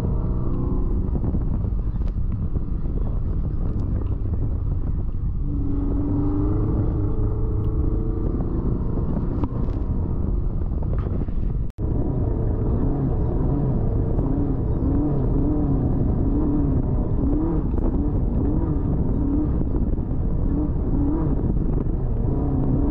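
Off-road race car engine running under load, its pitch rising and falling over and over as it is driven. The sound drops out for an instant about halfway through, then carries on.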